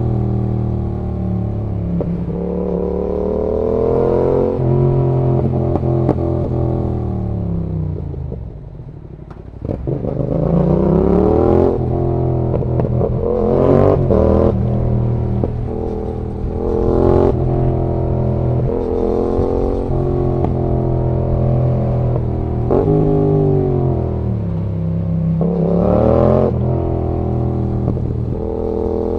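2019 Yamaha XSR700's 689 cc parallel-twin engine heard from onboard, its revs climbing and dropping back again and again as the bike is ridden through the gears. About eight seconds in the revs fall low and quiet on closed throttle before picking up sharply again. Short sharp clicks mark several of the changes.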